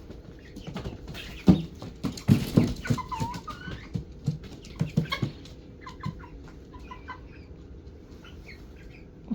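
Young chickens clucking and cheeping in short calls, most of them in the second half. A run of sharp knocks and thumps comes in the first half, the loudest about one and a half seconds in.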